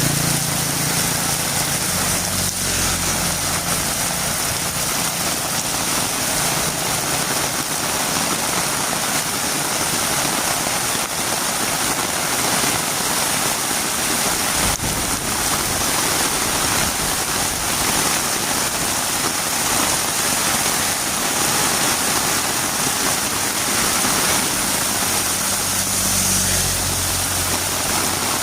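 Heavy rain falling steadily, a dense even hiss. A low engine hum fades out over the first few seconds and comes back near the end.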